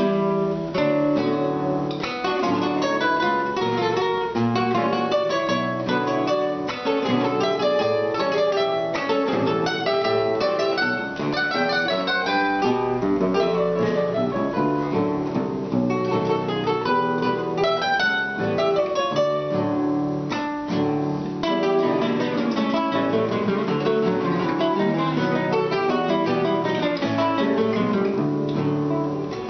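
A trio of plucked string instruments, led by guitar, plays an instrumental tune: a quick run of melody notes over chords.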